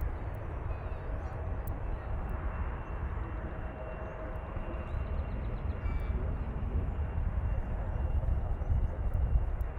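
Jet airliner engine noise: a steady low rumble with a faint whine above it, swelling slightly near the end.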